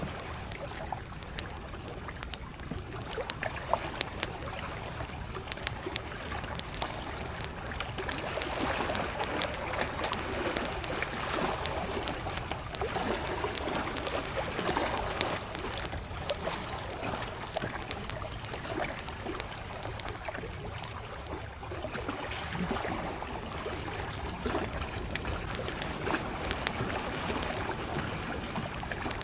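Campfire crackling with frequent sharp pops, over small lake waves lapping at the shore.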